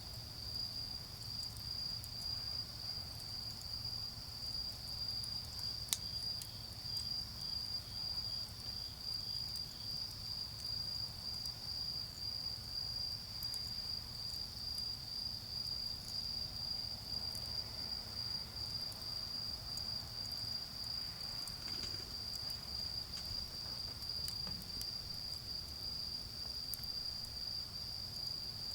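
Autumn insects trilling in one steady, unbroken high tone, over faint occasional crackles from a charcoal fire, with one sharper pop about six seconds in. A low rumble of distant road traffic runs underneath.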